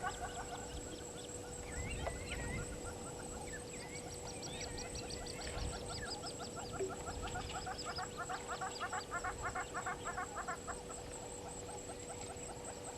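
Wild birds calling around the waterhole: fast chattering trills of rapidly repeated notes, mixed with short chirps.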